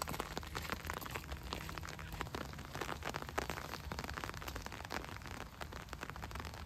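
Rain shower in gusty wind: a dense, irregular patter of drops striking close to the microphone over a steady low wind rumble.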